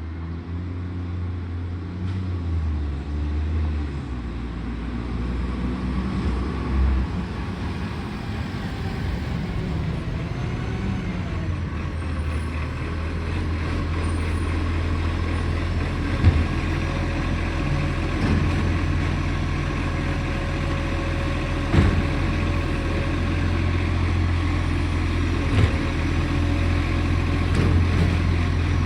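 Garbage truck's diesel engine running with a steady low drone, a truck with a bad exhaust leak. A few short sharp knocks stand out over it midway and near the end.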